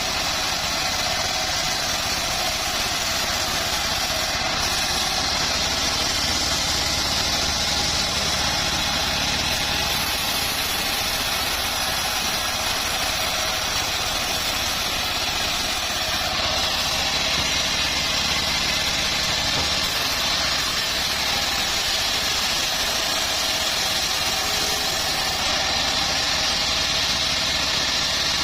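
Homemade bandsaw mill running steadily, a constant machine noise that keeps one level throughout.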